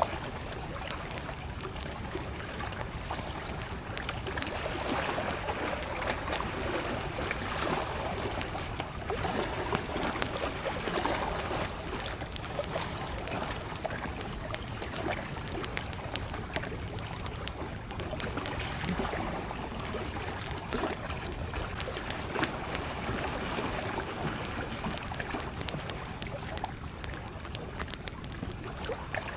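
Wood campfire crackling with frequent small sharp pops, over gentle lake waves lapping in slow rising and falling swells.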